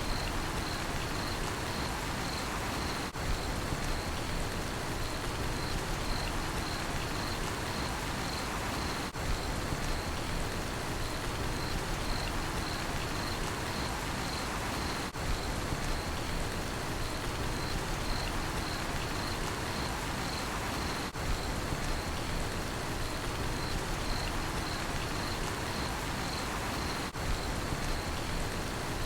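Steady rain falling, with a cricket chirping in an even pulsing rhythm over it. The sound dips briefly about every six seconds.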